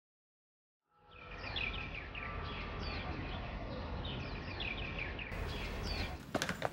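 Birds chirping, short falling calls repeated every half second or so over a steady low outdoor ambience that fades in about a second in after silence. Near the end come a few sharp knocks.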